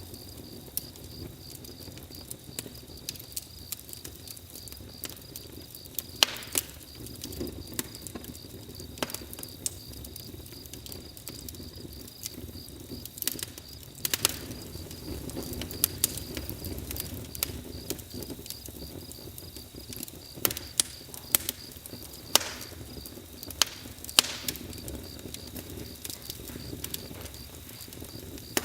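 Campfire crackling, with irregular sharp pops and snaps over a low steady rumble of burning wood. A steady high cricket chirp runs underneath.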